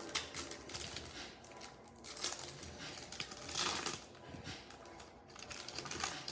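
Trading cards and their packaging being handled on a table: scattered light clicks and rustles, with a louder rustle about three and a half seconds in.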